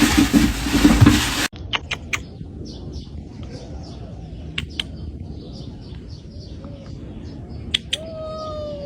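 A loud rushing noise that cuts off suddenly about a second and a half in, followed by birds chirping in quick short calls with a few sharp clicks, and a held, slightly falling tone near the end.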